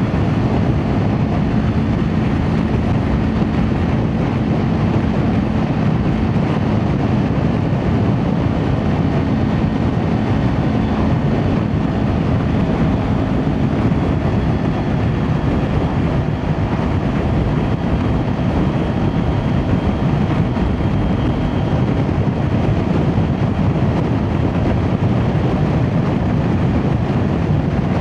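Kawasaki Ninja 400 parallel-twin engine running through an Akrapovic exhaust while the motorcycle rides steadily along the street, with wind noise mixed in.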